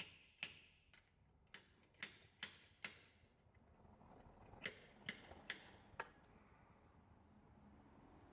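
Small slide hammer knocking lightly against its stop, about ten sharp metallic taps in two runs with a short pause between them, easing the cover off a Peugeot 1.2 PureTech oil pickup strainer clogged with wet-belt debris.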